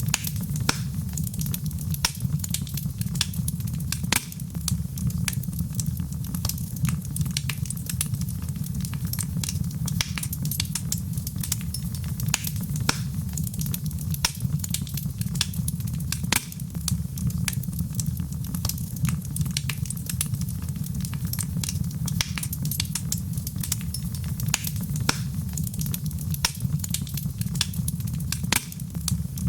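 Fireplace fire crackling: a steady low rumble with frequent, irregular sharp pops and snaps.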